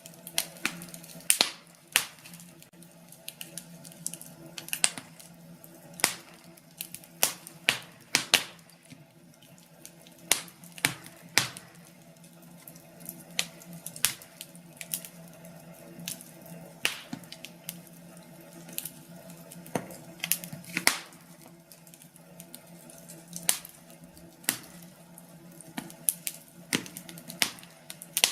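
Wood fire in a fireplace crackling, with sharp, irregular pops and snaps over a faint steady low hum.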